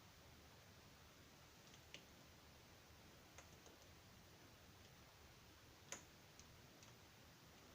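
Near silence broken by a few faint, light clicks and taps, about five in all, the loudest about six seconds in.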